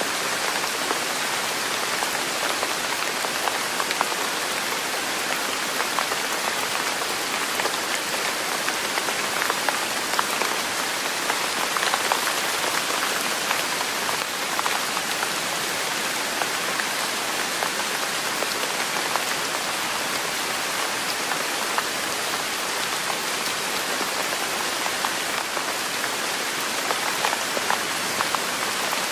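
Steady rain, a continuous hiss dotted with many small drop ticks.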